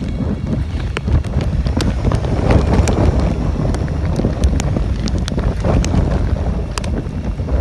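Tropical-storm wind buffeting the microphone in a steady low rumble, with rain and scattered sharp ticks of drops throughout.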